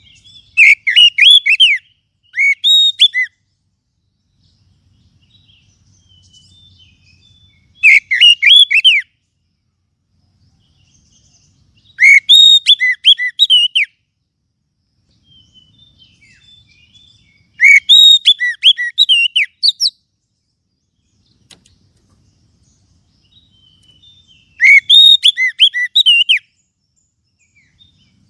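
Oriental magpie-robin calling: five loud phrases of quick, curving whistled notes, each one to two seconds long, repeated about every five to six seconds, with faint softer notes in between. A recorded call of the kind played to lure magpie-robins.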